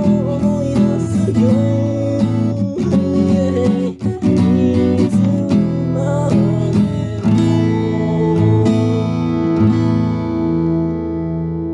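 Acoustic guitar strummed as the song's outro. About two-thirds of the way through, a final chord is left ringing and slowly fading.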